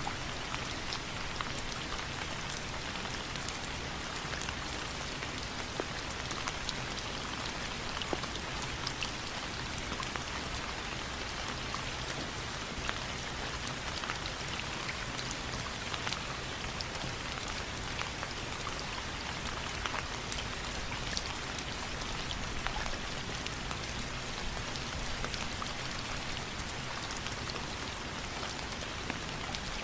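Steady rain falling on a surface, an even hiss with many scattered sharp ticks of drops throughout.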